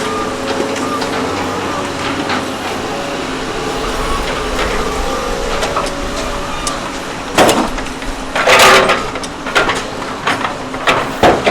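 Truck engine running steadily, heard from inside the cab, then several loud, short noisy bursts over the last few seconds.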